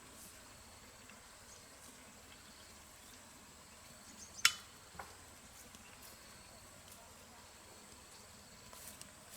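Faint steady high-pitched chirring of insects such as crickets, with one sharp knock about halfway through and a lighter one half a second after.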